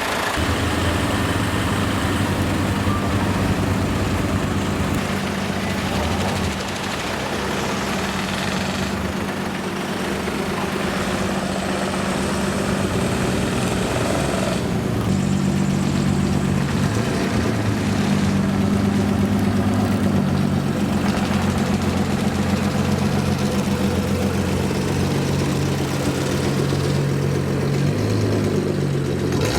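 Low, steady engine rumble of modified cars idling and creeping past, the pitch shifting a few times as different cars go by.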